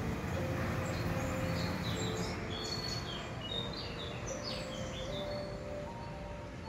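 Small birds chirping: a quick cluster of short, high chirps through the middle, over soft background music with long held notes and a low steady background noise.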